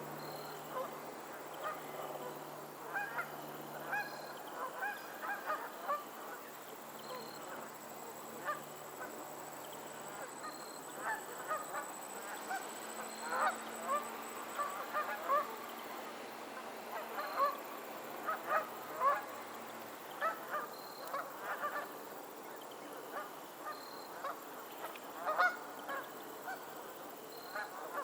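A flock of geese honking, with many short calls overlapping and coming on and off.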